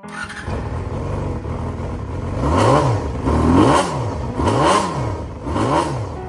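Honda Jade 250's inline-four engine idling, then blipped four times about a second apart, each rev rising and dropping back.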